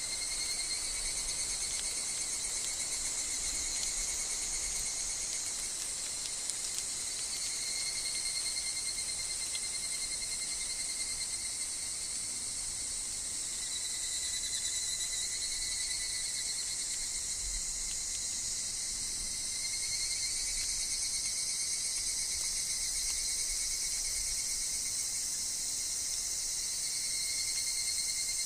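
Higurashi evening cicadas and other insects calling in a dense, steady high-pitched chorus. Pulsing, trilled phrases rise out of it and fade again every few seconds.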